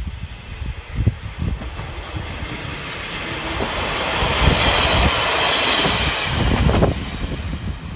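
KiHa 32 diesel railcar passing close by: a rushing rail noise that builds to its loudest about two-thirds of the way through, with the wheels knocking over rail joints, then drops away quickly near the end.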